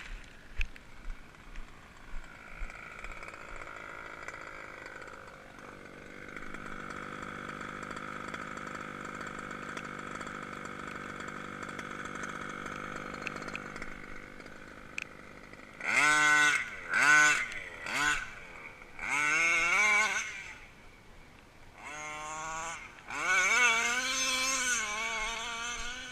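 29cc two-stroke reed-valve petrol engine of an HPI Baja RC car running steadily at a distance, then a run of about six loud throttle bursts in the second half, each revving up sharply and falling back.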